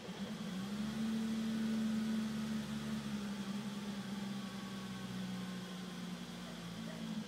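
BMW E34 M5's straight-six engine idling, a steady note that steps up slightly about half a second in and holds. The idle is rough, the problem the owner is chasing.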